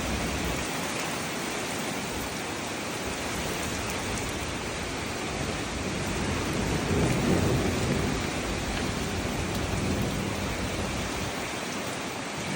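Heavy rain and wind as a steady rushing hiss, with a low rumble that swells about six seconds in and fades over the next few seconds.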